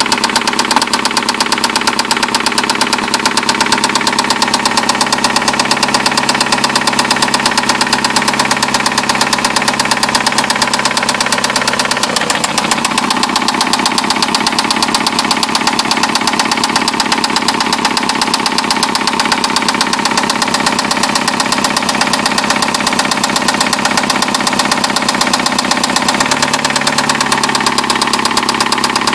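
2009 Nissan Altima's QR25DE 2.5-litre four-cylinder engine running with a steady, rapid knock, which the owner takes for a spun rod bearing on cylinder one. The running note shifts slightly about twelve seconds in and again a few seconds before the end.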